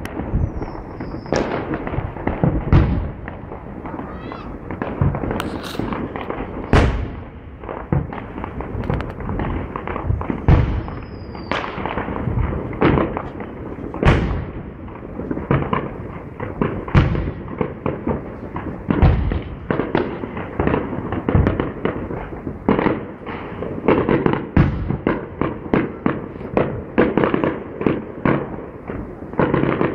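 Aerial firework shells bursting in a continuous series of bangs and crackles, with a couple of short falling whistles. The bursts come quicker and closer together in the last third, like a barrage.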